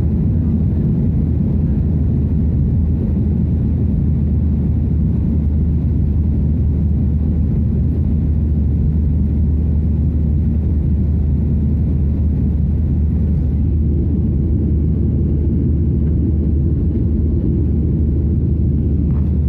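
Airliner's jet engines running at high power during takeoff, a loud, steady low rumble.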